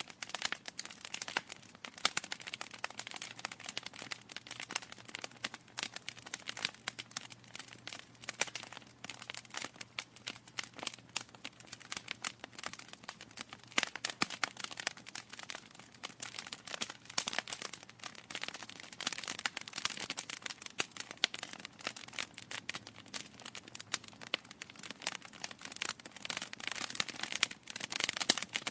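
Wood fire crackling in a fireplace: a dense, irregular run of small pops and snaps from burning logs, with a few sharper pops scattered through.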